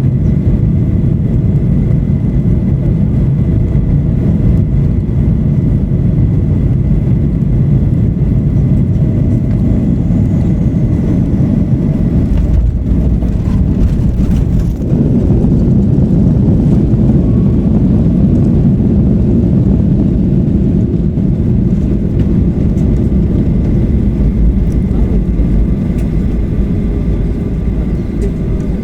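Boeing 737-800 cabin noise: a steady low rumble of engines and airflow. About halfway through there is a short cluster of knocks and rattles, after which the rumble carries on slightly louder.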